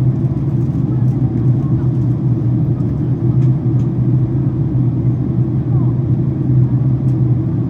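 Steady low cabin drone of a Boeing 767-400ER airliner descending: engine and airflow noise heard from inside the passenger cabin.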